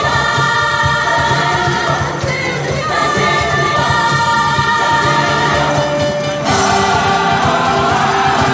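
Gospel mass choir singing in full harmony, holding sustained chords over a steady beat. The sound swells louder about six and a half seconds in.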